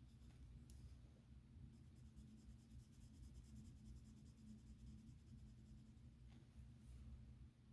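Faint, rapid back-and-forth colouring strokes of a pen or pencil tip scratching on sketchbook paper. They start about two seconds in and stop near the end, with a single click just before they begin.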